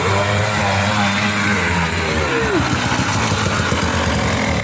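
Dirt bike engine running steadily at low revs close by.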